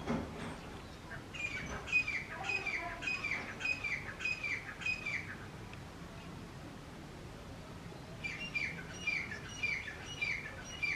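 Grey francolin calling: two runs of loud, repeated notes, each note sliding sharply down in pitch, about two notes a second. There is a pause of a few seconds between the runs. A brief thud sounds at the very start.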